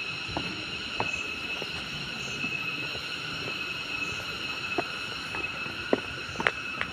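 Steady, high-pitched chorus of jungle insects, a drone of several unchanging tones, with a few sharp clicks or taps in the second half.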